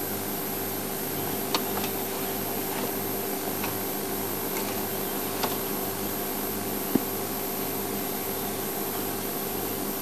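Steady hiss with a low mechanical hum, broken by a few faint ticks and one sharper tick about seven seconds in.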